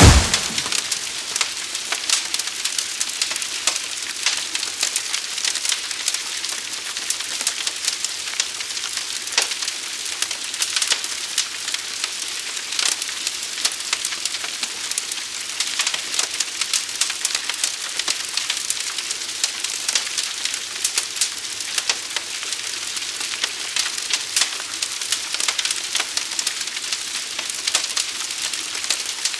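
Forest fire burning with a steady hiss and a dense run of small sharp crackling pops. A loud low rumble dies away right at the start.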